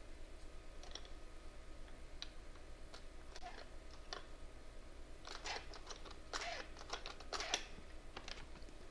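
Faint, scattered light clicks and taps, busier from about five seconds in until about seven and a half seconds in.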